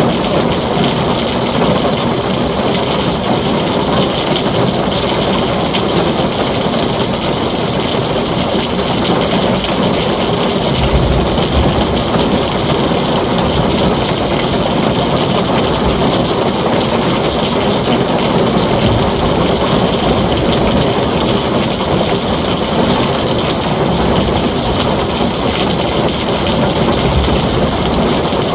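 Heavy rain pouring steadily on a tin roof, a dense even hiss with no breaks. A low rumble of distant thunder swells briefly about eleven seconds in.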